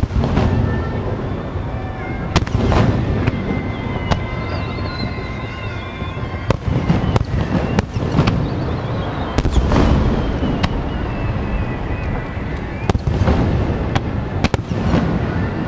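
Fireworks display: aerial shells bursting in repeated deep booms, with many sharp cracks and crackling at irregular intervals.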